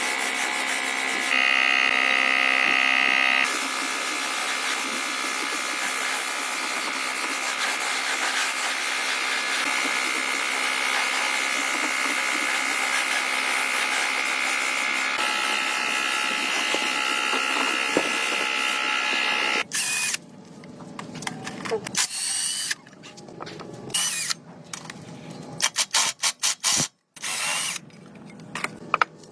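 An electric power tool running steadily with a high whine, louder for a couple of seconds near the start. About twenty seconds in it cuts off, and short, choppy scrapes and clicks follow with quiet gaps between them.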